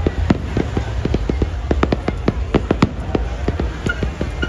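Fireworks going off in rapid, irregular bangs, several a second, over a steady low rumble.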